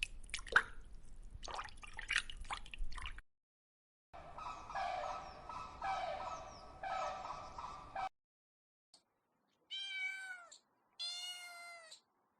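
A domestic cat meowing: three long meows in a row, then, after a silence, two more clear, slightly falling meows near the end. The first few seconds hold only scattered clicks and noise.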